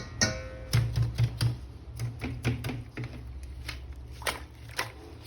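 Irregular sharp clicks and taps of hard plastic being handled, as a toy action figure and its parts are worked, over a steady low hum.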